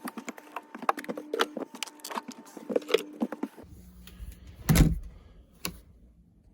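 G scale model train running: a steady motor hum under a rapid, uneven clicking of wheels on the track. A bit over halfway in the hum stops and a low rumble starts, with one loud thump and a smaller click after it.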